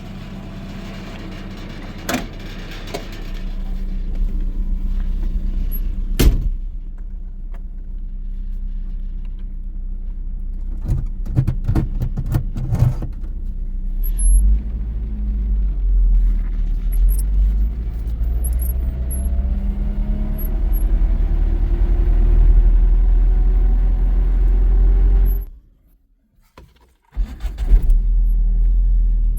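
A car engine running as the vehicle drives over rough ground, its pitch and loudness slowly rising, with knocks and rattles from the body. Near the end it cuts off abruptly for about two seconds, then returns.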